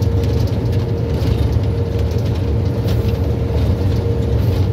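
Train running slowly on repaired track, heard from on board: a steady low rumble with a constant hum and faint ticks.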